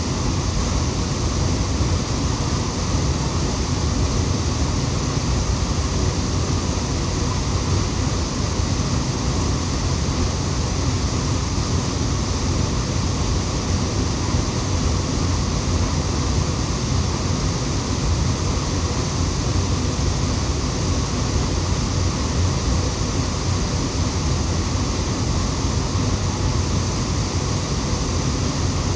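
Waterfall rushing: a loud, steady, unbroken roar of falling water.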